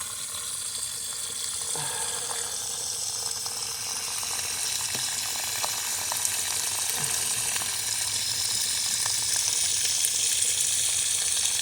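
Water spraying under mains pressure out of a broken-loose PVC elbow: a steady hiss that grows slightly louder, with a few faint drips or knocks.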